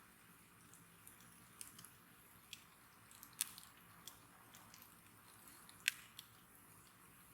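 Wood bonfire crackling softly: scattered small pops and snaps over a faint hiss, with two sharper snaps, one about halfway through and one a little later.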